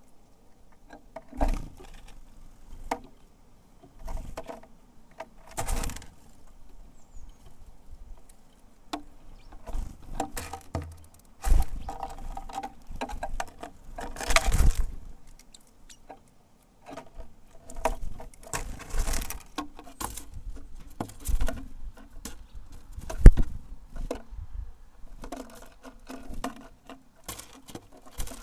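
Irregular taps and knocks, typical of tits pecking at sunflower seeds and landing at a feeder, mixed with gusts of wind noise on the microphone.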